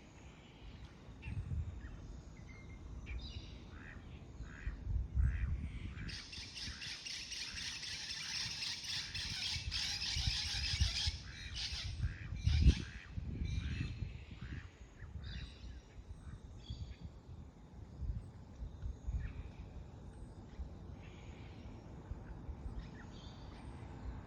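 Small birds chirping and calling, with a dense run of rapid chirping for about five seconds starting some six seconds in. Low thuds sound underneath.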